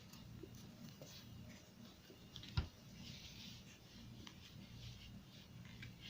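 Quiet room tone with a steady low hum, faint scattered clicks and ticks, and a single sharper knock about two and a half seconds in.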